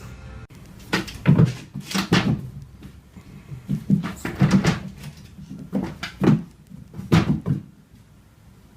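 A series of about a dozen sharp knocks and bangs, often coming in quick pairs, spread irregularly over several seconds and dying away near the end.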